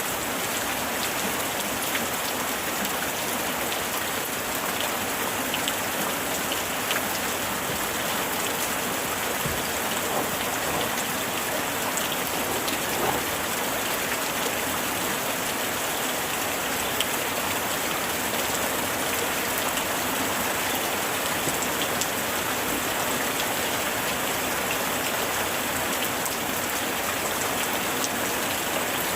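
Steady heavy rain falling, a constant dense hiss with scattered individual drop splats.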